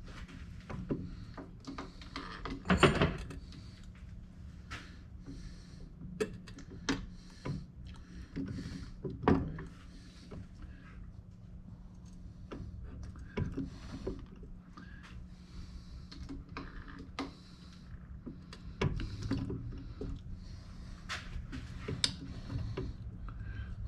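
Scattered metal clicks and knocks of hand work at a milling machine, the loudest about three seconds in and again near ten seconds, over a steady low hum.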